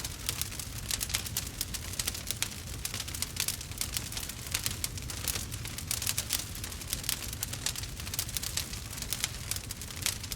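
Burning wood fire crackling, with dense, irregular pops and snaps over a low steady rumble.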